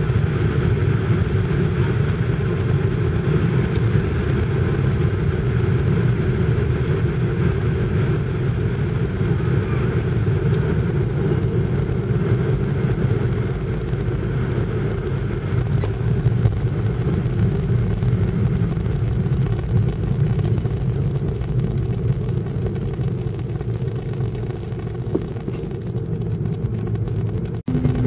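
Steady low rumble of an airliner's cabin during landing: jet engines and airflow. The higher part of the noise slowly thins toward the end, and there is a brief dropout just before the end.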